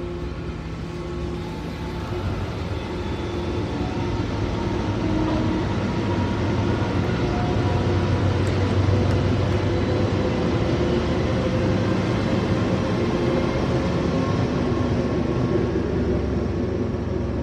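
Train running: a steady noise with faint humming tones in it, growing louder over the first several seconds and then holding level.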